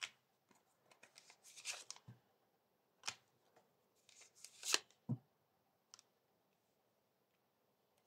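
Tarot cards being handled: faint rustling and a few light snaps and taps in the first five seconds or so, then nearly nothing.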